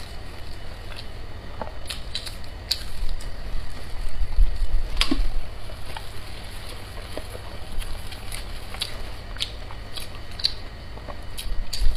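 Close-miked eating: chewing and biting crisp fried egg pancake, with scattered sharp crackles and clicks from the crisp food being torn and chewed. There are low thumps about four to five seconds in and again near the end.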